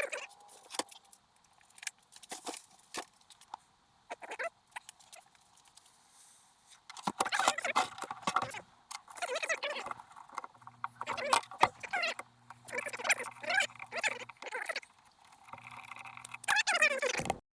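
Metal tools and engine parts clinking and clattering as they are handled: sparse clicks at first, much busier from about halfway. A low steady hum comes and goes in the later part, and the sound cuts off abruptly at the end.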